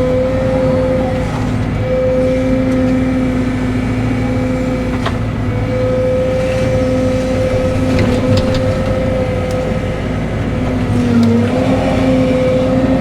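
Cat 313 hydraulic excavator's diesel engine running steadily under a hydraulic whine, with a few faint knocks. The whine dips briefly in pitch about two seconds before the end as the machine takes load.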